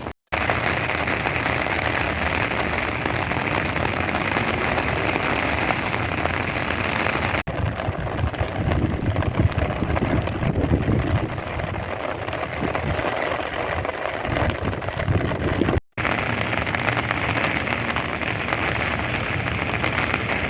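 Heavy rain pouring down in a dense, steady hiss, with a deeper low rumble through the middle stretch. The sound breaks off for an instant twice, at cuts between clips.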